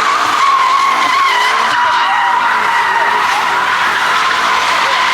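Car tyres squealing in one long, continuous screech that wavers slightly in pitch.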